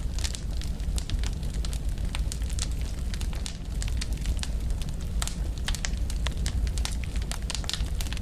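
Wood fire burning, with a steady low rumble of the flames under many quick, irregular snaps and pops from the burning wood.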